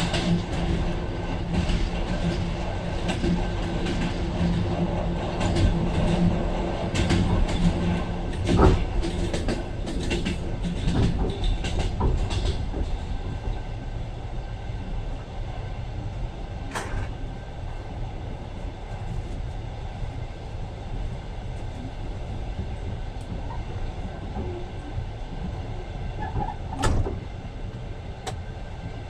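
Passenger train running on the rails, heard from inside the carriage: a steady rumble with rattling and scattered knocks, busier and louder in the first half, then settling to a quieter, even run, with a sharp knock near the middle and another near the end.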